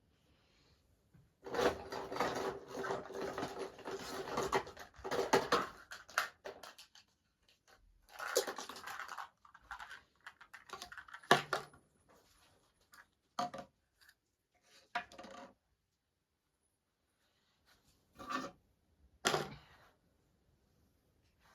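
Household handling sounds in a small room: a few seconds of rustling and scraping, then scattered separate knocks and clinks like dishes and utensils being handled.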